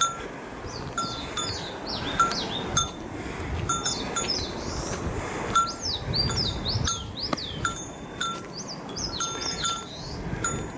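A small metal bell jingling in irregular short rings, several a second, while birds sing warbling phrases over a low rushing background.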